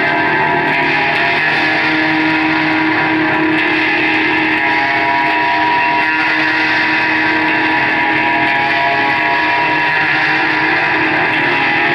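Loud live band music: distorted electric guitar through effects, a dense, steady wall of held tones.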